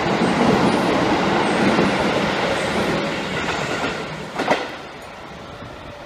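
Keikyu New 1000 series stainless-steel electric train pulling out past the platform, its running noise fading away as it goes. There is one short sharp sound about four and a half seconds in.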